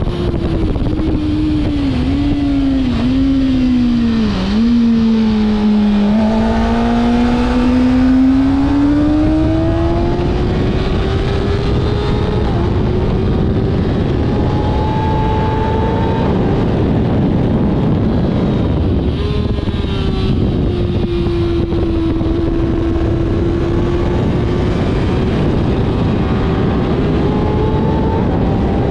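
Kawasaki ZX-6R's inline-four engine heard from on the bike at track speed under heavy wind rush: the note drops in quick steps with blipped downshifts a few seconds in, then climbs steadily as the bike drives out of the corner. Later it eases off and climbs again.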